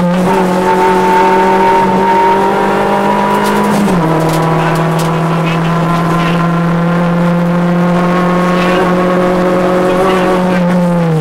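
Rally car engine heard from inside the cockpit, pulling hard at high revs with a slowly rising pitch; about four seconds in the pitch drops sharply at an upshift, then holds nearly steady until it falls again just before the end as the car slows.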